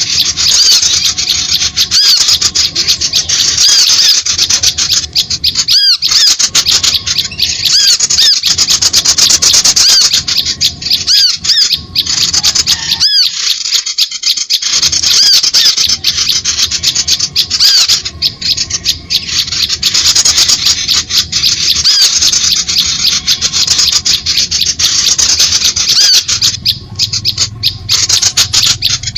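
Dense, continuous chorus of high-pitched small-bird chirps and squawks, rapid and overlapping, used as a lure call to attract small birds.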